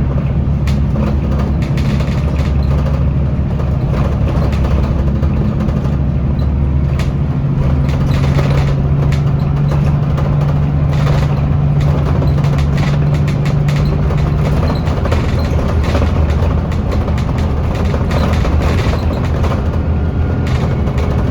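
Scania L94UB city bus's diesel engine and driveline running under way, heard from inside the cabin: a steady low drone that grows stronger for several seconds mid-way and then eases, with scattered short rattles and clicks from the body.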